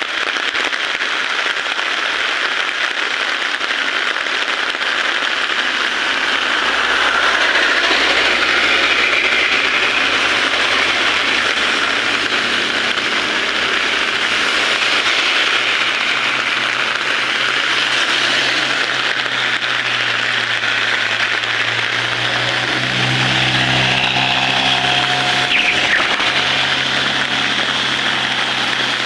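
Heavy rain falling steadily, with a vehicle engine running underneath it that grows louder about three-quarters of the way through.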